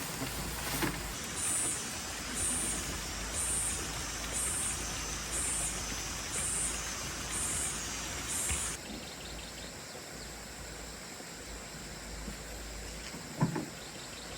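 Outdoor rural ambience with a high-pitched call pulsing about once a second, which stops abruptly about two-thirds of the way in. A short thump comes near the end.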